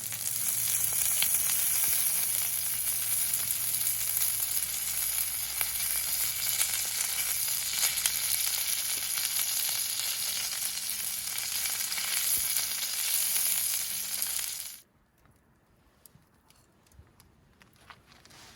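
Food sizzling in a pan over a campfire: a steady hiss with fine crackles that cuts off suddenly near the end, leaving only faint clicks.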